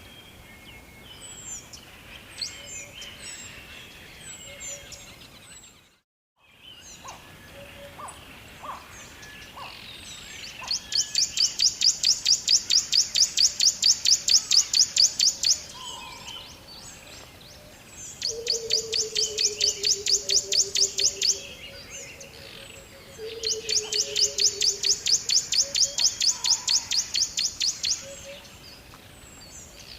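Songbirds chirping over a faint steady background. From about ten seconds in, a loud, very rapid trill repeats in three phrases of three to five seconds each, twice joined by a lower, falling pulsed call. The audio drops out briefly about six seconds in.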